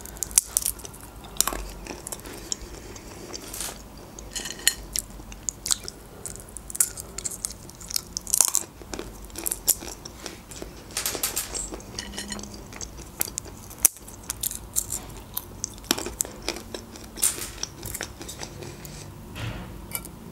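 A person biting and chewing crunchy snack food close to the microphone, with short crisp crunches coming irregularly throughout.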